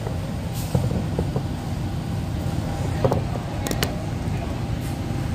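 MTR East Rail line R-Train electric multiple unit on the move: a steady low rumble with a few light knocks and clicks.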